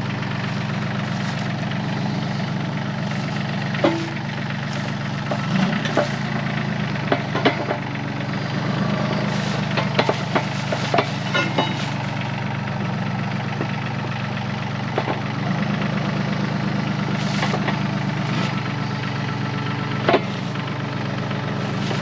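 Yanmar YT235C compact tractor's diesel engine running steadily at a low throttle while the pallet forks work a rock. Scattered sharp knocks and clanks come in a cluster over several seconds in the middle and once more near the end.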